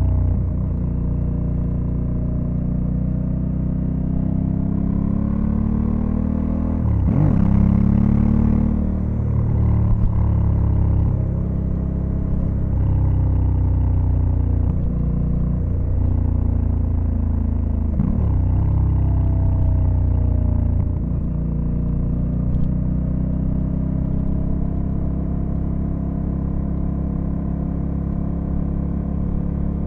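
Honda Africa Twin CRF1100L's 1084 cc parallel-twin engine running under way. Its pitch rises and falls, with several brief dips as gears change, and it is louder for a stretch about seven to nine seconds in.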